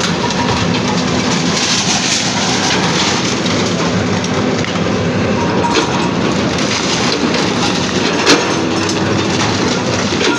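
Demolition machinery running continuously amid the crushing and clattering of broken structures and debris, with a sharp crack about eight seconds in.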